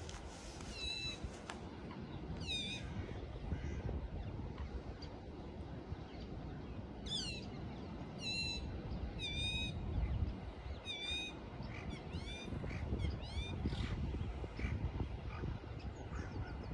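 Birds calling in the morning: short, sweeping whistled notes in scattered runs, with a gap of a few seconds after the first two and a denser run in the second half. Under them is a steady low rumble.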